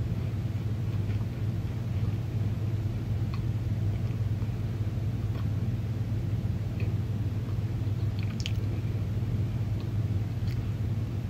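Chewing a mouthful of chunky cornstarch, heard as a few scattered soft clicks and crunches over a steady low hum.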